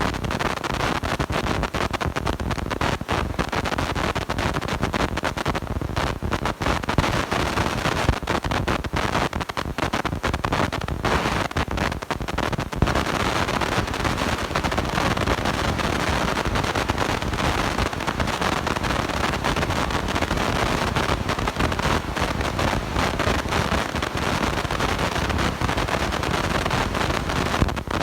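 Steady, harsh crackling hiss from a blown-out microphone, with dense clicks that thin out about halfway through.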